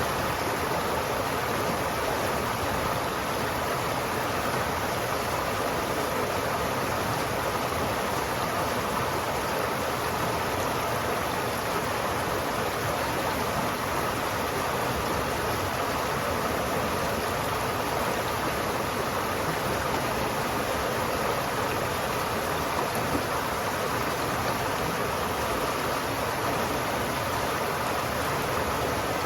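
River water flowing steadily in a continuous rush, with no change in level.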